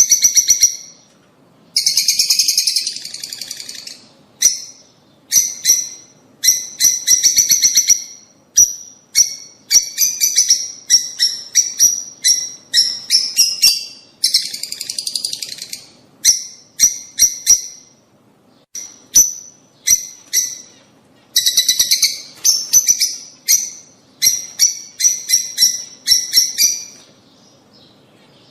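Lovebirds chattering: rapid, shrill chirping calls in bursts of a second or so, with short gaps between bursts and a longer lull near the end.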